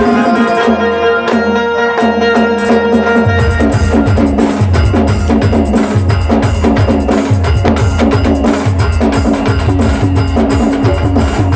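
Live band music: a short break of sharp, evenly spaced percussion strikes over a held low note, then about three and a half seconds in the full band comes back in with a fast, steady drum beat.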